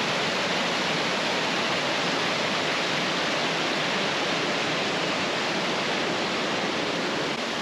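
Waterfall on the Rose River running high after a heavy rainstorm: a steady, even rush of falling water.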